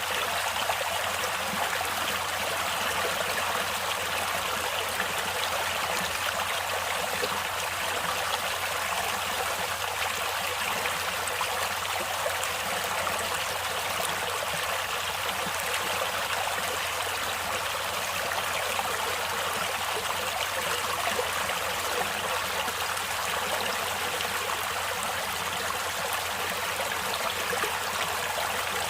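Stream water flowing steadily over rocks, a constant rushing hiss with no pauses.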